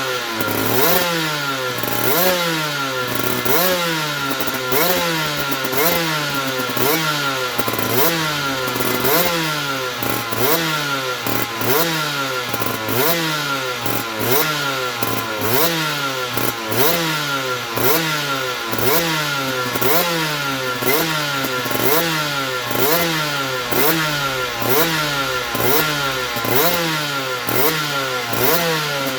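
2008 Aprilia RS125's 125cc single-cylinder two-stroke engine being blipped over and over, about once a second: each time the revs climb and fall straight back. A steady high whine runs underneath.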